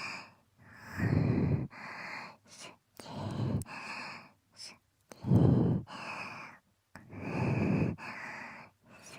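Close-up breathy exhales and sighs into a binaural microphone, about one every two seconds. Some are loud and full, and a few short, soft clicks fall between them.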